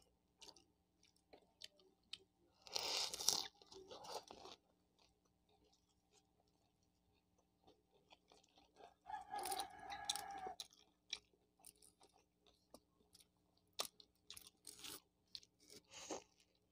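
Close-miked eating of an empanada: crunching bites of the crisp crust and chewing, with small wet mouth clicks throughout. Two louder spells of crunching come about 3 seconds in and around 9 to 10 seconds, and another bite near the end.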